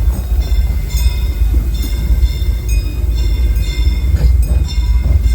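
Disneyland Railroad passenger train in motion behind steam locomotive No. 3 Fred Gurley, heard from on board: a steady low rumble of the moving cars, with a high ringing that repeats about twice a second.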